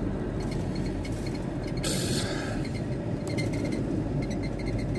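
Steady low rumble of the VW T4 Transporter's diesel engine and road noise heard inside the cab, with a short hiss about two seconds in.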